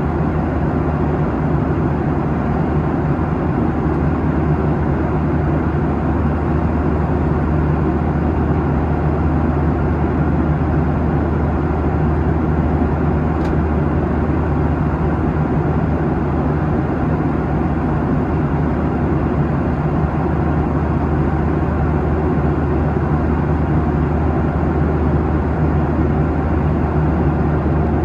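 Steady cabin noise inside a Boeing 737-800 at cruise: the even drone of its CFM56-7B turbofan engines and the rush of air along the fuselage, with a low hum underneath.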